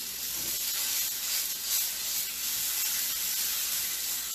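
Chicken pieces frying in hot oil in a large skillet, a steady sizzling hiss.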